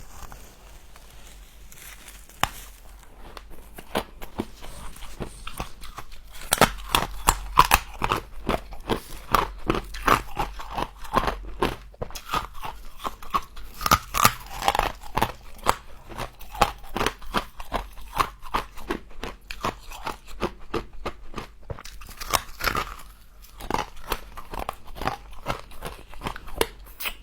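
Humidifier-grown frost being bitten and chewed: a dense run of sharp, crisp crunches and crackles that picks up a few seconds in and thins out near the end.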